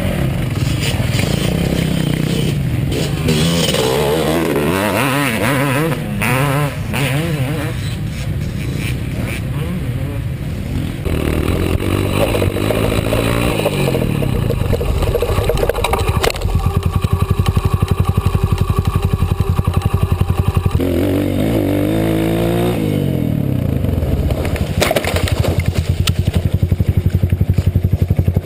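Dirt bike engine being ridden, its pitch rising and falling again and again as the rider works the throttle and shifts.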